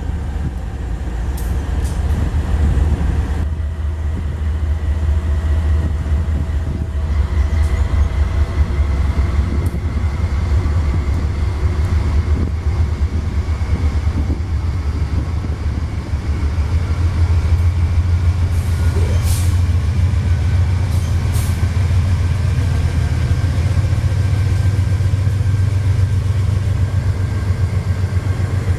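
Freight train running through a rail yard: a steady deep rumble of diesel locomotive engines, with a faint high squeal in the second half.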